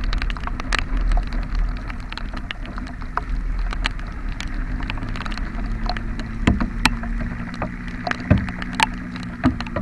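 Motorcycle engine running steadily while riding in rain, with rain pattering and many scattered sharp taps, a few louder knocks in the second half.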